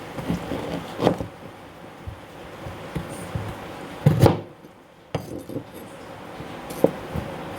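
Kitchen handling sounds: a few sharp knocks and clinks of dishes or utensils being set down and moved, the loudest around the middle, over a steady background.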